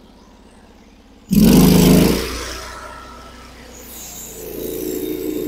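Norwood HD36 bandsaw mill's engine idling low, then throttled up suddenly about a second in to drive the band blade. The sound eases a little, then builds again near the end as the blade starts into the white oak log.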